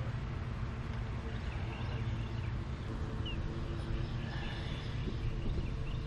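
Faint, short bird chirps now and then over a steady low rumble.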